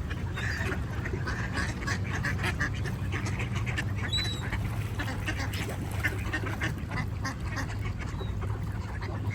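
Ducks quacking repeatedly in a close group, over a steady low rumble.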